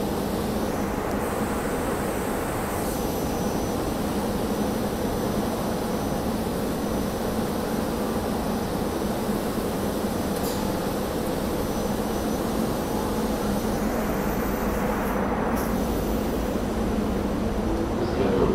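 SEPTA Regional Rail electric multiple-unit train standing at the platform. It gives a steady hum with two low, constant tones over a continuous rushing noise. Near the end the train starts to pull away.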